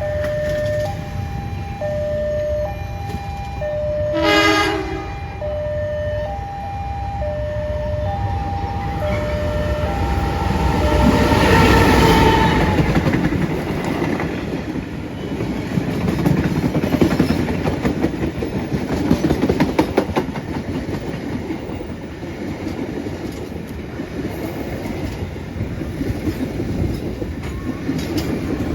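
Level-crossing warning signal sounding two alternating tones about once a second, with a short train horn blast about four seconds in. A train then passes at speed, loudest about twelve seconds in, and its wheels keep clacking over the rail joints to the end.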